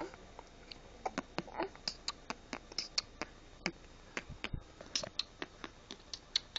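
A child's lips making a quick run of short wet pops and splutters, about three or four a second, as she tries to blow a raspberry.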